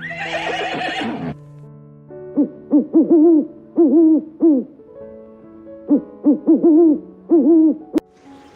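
Short hooting calls from an animal, in quick runs of three or four, each call rising and falling in pitch, over background music. A brief noisy call sounds in the first second.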